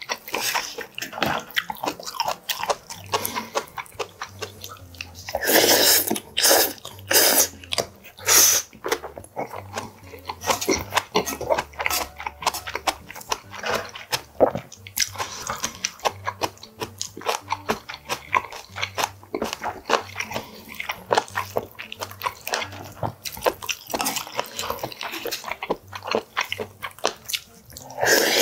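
Close-miked eating: a person chewing and smacking mouthfuls of rice dishes, with many small wet clicks. Louder bursts of eating noise come about six to eight seconds in and again near the end.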